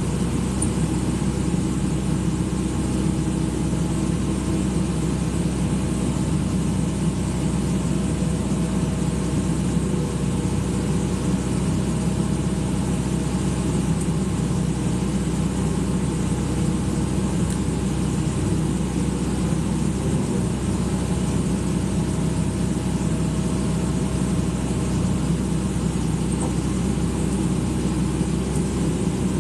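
Excavator's diesel engine running steadily at a constant speed, a low even hum with no changes in pace.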